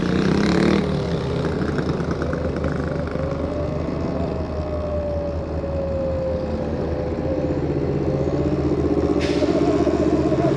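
Electric bike motor whining while riding, its pitch slowly falling and then rising again with speed, over a steady low rumble of road and wind. A hiss comes in suddenly near the end.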